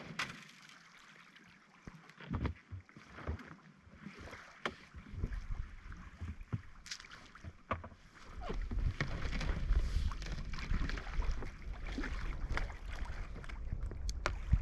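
A kayak being paddled across a loch: irregular splashes and knocks of the paddle in the water and against the hull. A steady low rumble joins from about eight seconds in.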